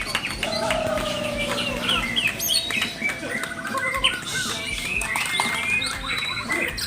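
Many caged songbirds singing at once, a dense overlapping chorus of quick chirps and trills.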